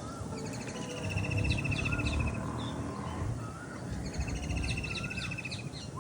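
Several wild birds calling over a low background rumble. A fast, even trill comes twice, about half a second in and again near four seconds, mixed with short chirps and little whistled notes.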